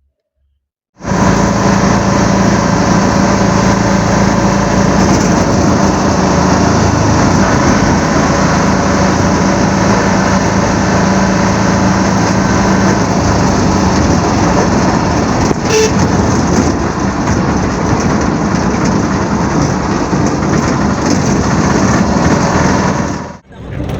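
Steady engine and road noise of a motor vehicle on the move. It starts abruptly about a second in and cuts off just before the end.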